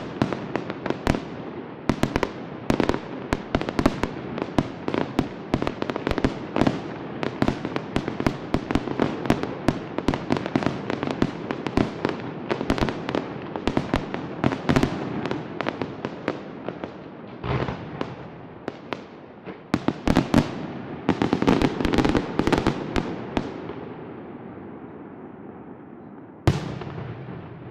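Fireworks display with rapid, dense bangs and crackling, thinning out in the last few seconds, then one final loud bang near the end.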